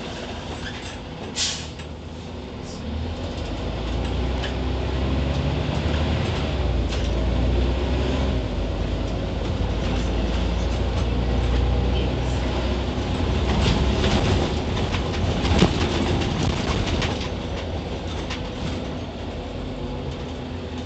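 Scania CN94UB OmniCity city bus's diesel engine pulling under load. The engine note builds a few seconds in, holds for most of the stretch, then eases off near the end, with rattles and clicks throughout.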